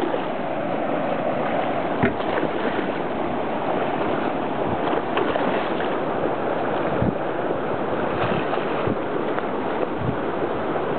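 Steady wash of water and wind around a small fishing boat, with a few short knocks on the hull.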